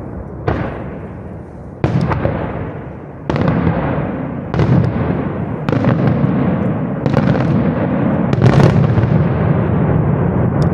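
Fireworks display bursts: a run of loud bangs, about one every second and a half, each followed by a long rumbling echo that fades into the next. Two bangs come close together about eight and a half seconds in.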